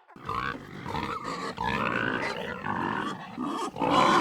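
An animal calling in rough, drawn-out cries that break off briefly near the end.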